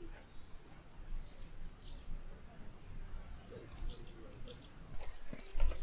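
Small birds chirping, many short, high, falling notes repeated over a low rumble. Near the end a few sharp clicks and a heavy thump.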